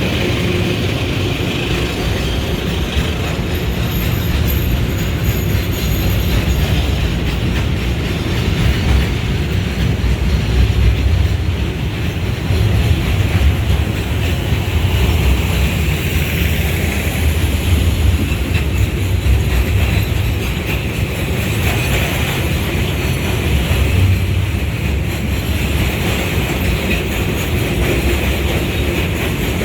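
Freight train rolling past, a steady rumble of wagon wheels on the rails that swells a little at times.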